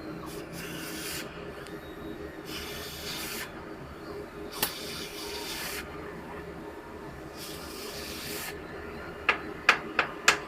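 Four rasping, hissy strokes, each about a second long and roughly two seconds apart, over a steady machinery hum, followed near the end by four sharp taps in quick succession.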